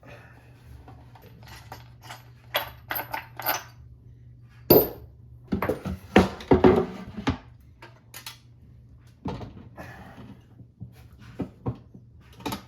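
Packing foam and a boxed model train being handled: a run of irregular clicks, knocks and rustles, loudest about five seconds in and again around six to seven seconds in.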